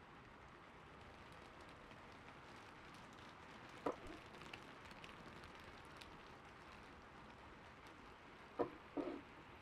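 Gentle background rain, a steady soft hiss. A few sharp clicks stand out about four seconds in and again twice near the end.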